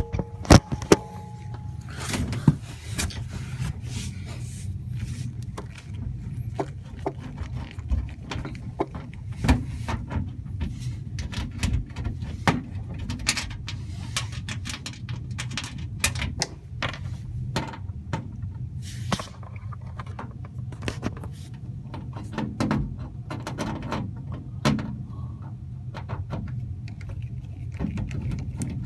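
Repeated clicks, knocks and rattles of hands working an HVAC air handler's access panel and air filter, over a steady low hum. A short two-note tone sounds in the first second.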